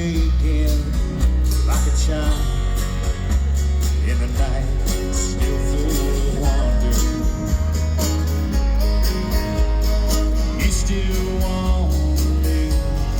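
Live acoustic country band playing an instrumental passage: plucked acoustic guitar over a steady, heavy bass line.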